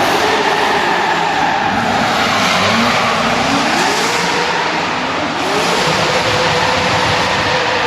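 Twin-turbo Toyota 1UZ V8 in a Nissan Silvia S15 drift car held at high revs with its tyres screeching. The engine note dips and climbs back twice, about three seconds in and again around five seconds, then holds high.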